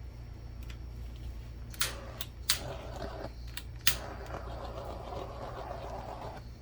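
Handheld butane torch: a few sharp clicks of the igniter, then the flame hissing steadily.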